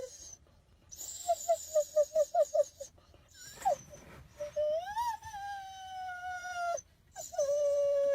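A dog whining and howling: a quick run of about eight short yelps, then one long howl that rises and slowly falls, and another held whine near the end.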